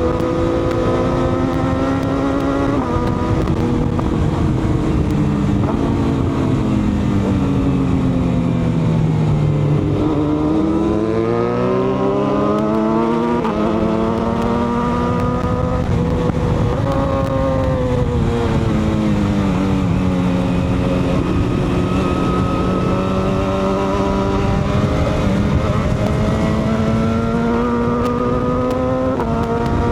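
Motorcycle engine under way, its pitch falling for several seconds as the bike slows, then climbing again through gear changes and settling to a steady cruise, with wind noise throughout.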